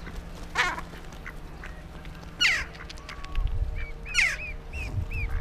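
Wild birds calling: a few harsh calls that fall in pitch, spaced a second or two apart, then a quick run of four short calls near the end, over a faint steady low hum.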